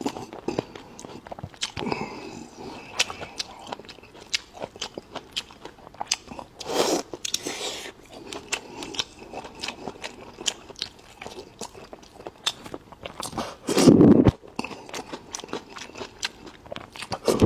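Close-up chewing and biting of food, with many small sharp clicks and crunches. There is a louder, lower-pitched sound about fourteen seconds in.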